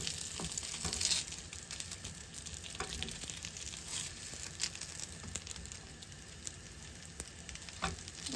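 Korean pancakes frying in a nonstick pan: a soft, steady sizzle with small scattered crackles.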